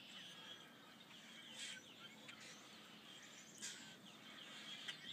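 Faint bird chirps and short calls over a quiet outdoor background hiss.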